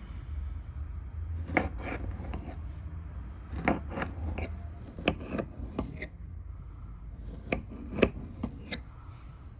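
Knife work on food: a run of short, sharp cutting or scraping strokes in four quick bunches of three or four.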